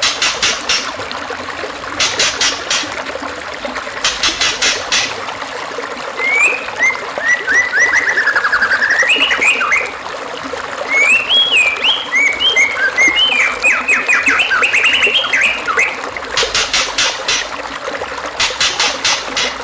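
Songbird song played as masteran for white-rumped shamas, over a steady trickle of running water. There are short buzzy trills about every two seconds near the start and again near the end. In the middle come two longer phrases of whistled notes that glide up and down.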